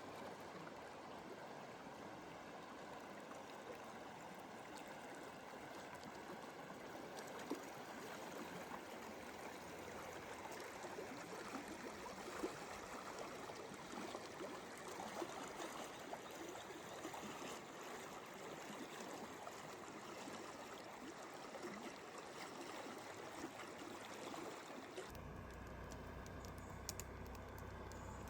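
Steady rush of flowing water, a stream running. About 25 seconds in the sound changes to a thinner hiss with a low hum and a few clicks.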